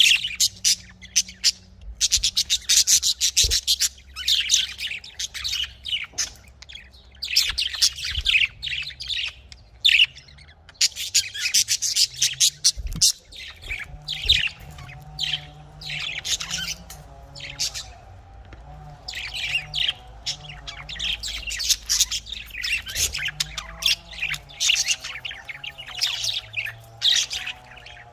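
Budgerigars chirping and chattering in repeated bursts of quick, shrill calls with short pauses between.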